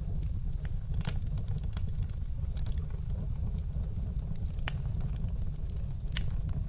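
Wood fire crackling in a fireplace: a steady low rumble of burning flames with scattered sharp pops and snaps, the loudest about a second in, a little past the middle, and near the end.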